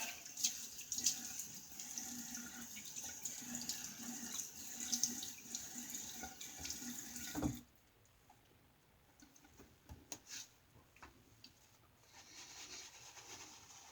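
Bathroom tap running into a sink, then shut off sharply just over halfway through. After that come a few faint clicks.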